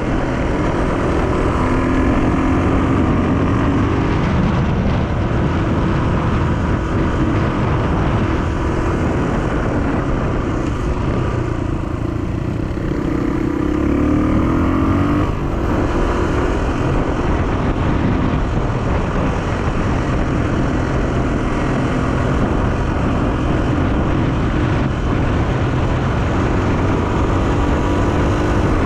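1984 Honda XR250R's single-cylinder four-stroke engine running as the dirt bike is ridden, its note rising and falling with the throttle, easing off and climbing again about halfway through.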